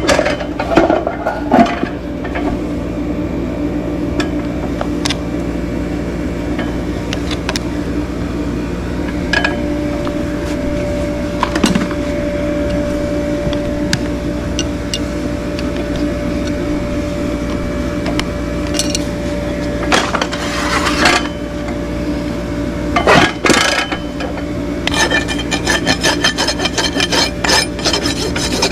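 A hoof being worked with hand tools: scraping and scattered knocks over a steady low hum, then quick repeated rasp strokes near the end.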